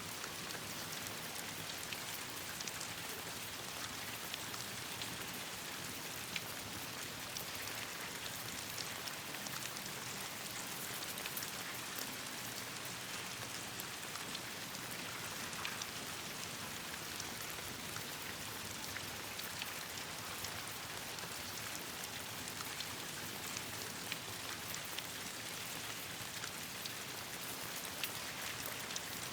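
Steady rain falling on leaves and ground, a constant hiss with many small sharp drop ticks scattered through it.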